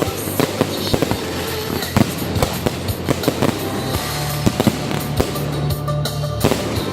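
Fireworks going off: a dense run of sharp bangs and crackles, with music playing underneath.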